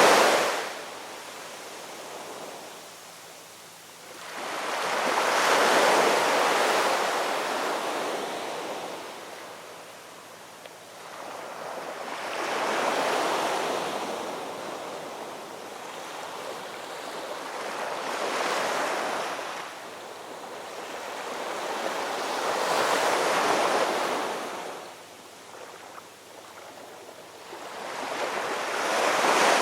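Ocean waves breaking on a shore, each one swelling to a rush of surf and then washing back. A new wave comes about every five to six seconds.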